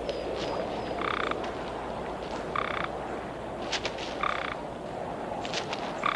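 Toads calling: four short calls about a second and a half apart, with faint ticks between them, over a steady background hiss.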